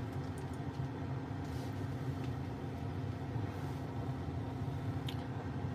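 Car engine idling, heard from inside the cabin as a steady low hum, with a faint click about five seconds in.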